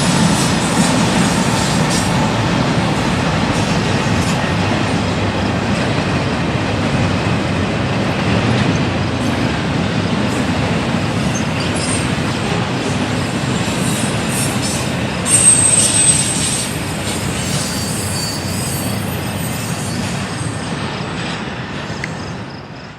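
Freight train cars rolling past on the rails, with a steady rumble, some clicking over rail joints and thin high wheel squeal. A short, louder high squeal comes about two-thirds of the way through, and the sound fades out near the end.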